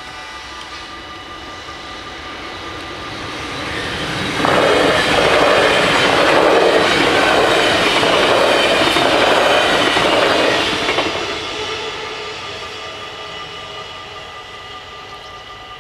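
NS VIRM double-deck electric train passing over a level crossing: its wheel-on-rail noise builds, comes in loud about four and a half seconds in, holds for some six seconds, then fades away. The crossing's warning bells ring steadily throughout.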